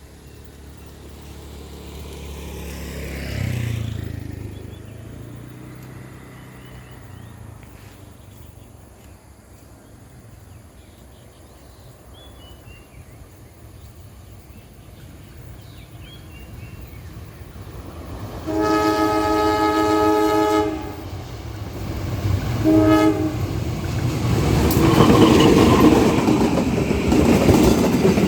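Diesel locomotive horn sounding one long blast and then a short one, several tones together, as the train approaches. Its running noise and wheel rumble on the rails then grow loud toward the end. A brief low rumble swells and fades about three seconds in.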